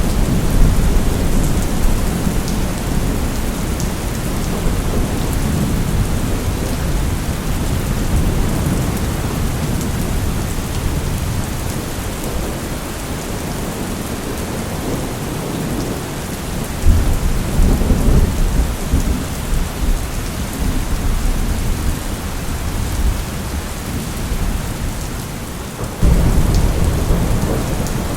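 Steady rain falling with rolling thunder rumbling underneath; a fresh thunder rumble breaks in suddenly about two-thirds of the way through, and another near the end.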